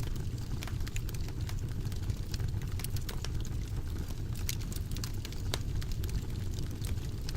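Wood fire in a fireplace crackling: many small sharp pops and snaps scattered irregularly over a steady low rumble of the flames.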